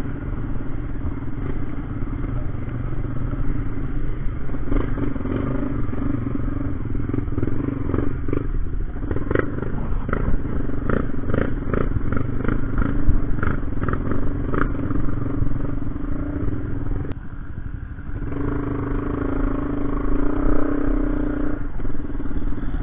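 Vehicle engine running steadily, with a run of sharp rattling clatters in the middle. The engine tone drops out briefly about three quarters of the way through, then comes back.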